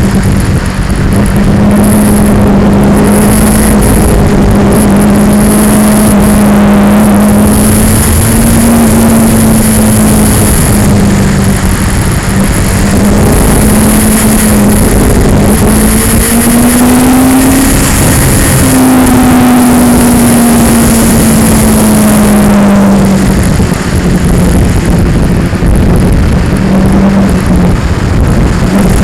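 2002 Yamaha R6's inline-four engine running under way at steady revs, its pitch wandering up and down with the throttle. About two-thirds of the way through, the pitch climbs, breaks off briefly, then slides down. The engine is buried in heavy rushing noise and a high buzz from the vibrating action camera.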